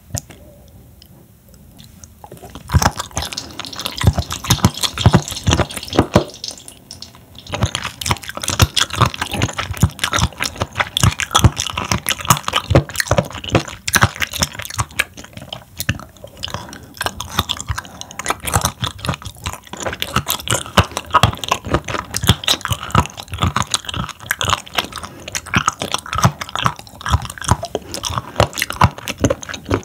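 Close-miked chewing of raw seafood: a rapid run of wet mouth clicks and smacks that starts a couple of seconds in after a quiet moment, with one short pause about a quarter of the way through.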